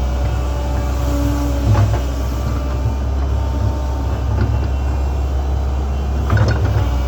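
Link-Belt 2700 excavator's diesel engine running steadily under load, a heavy low drone with faint whining tones above it. There is a knock about two seconds in and a short cluster of knocks near the end.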